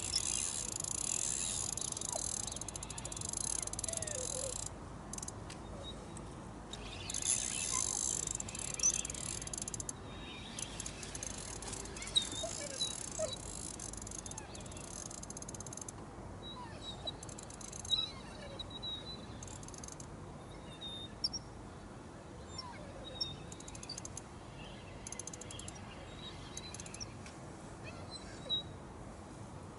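Outdoor birdsong: scattered short bird chirps and calls over a quiet background, with a few sharp clicks. A steady high hiss fills roughly the first ten seconds, breaking off briefly a few times, then stops.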